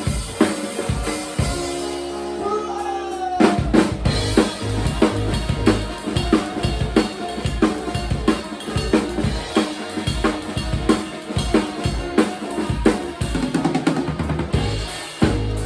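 Live band playing with a prominent drum kit: kick, snare and rimshots keeping a steady beat. About two seconds in the drums drop out under a few held notes, and about three and a half seconds in the full band comes back in on a loud hit.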